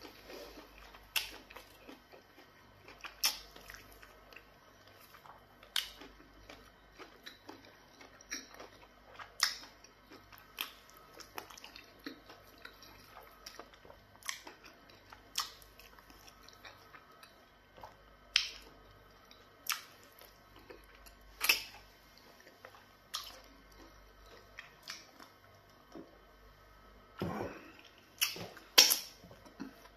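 Close-up chewing and lip-smacking of a man eating pounded yam fufu and goat meat in black soup, with sharp wet mouth clicks every second or two. The clicks come thickest and loudest near the end.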